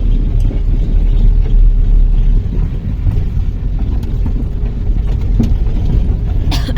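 Road noise inside a moving car on a machine-graded country road: a steady low rumble from the engine and tyres, with a few light knocks.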